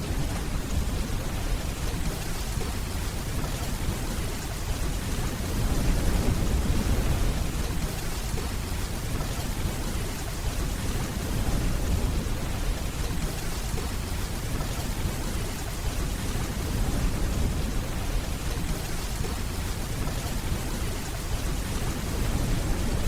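Steady rainfall with a deep rumble of distant rolling thunder underneath, swelling a couple of times.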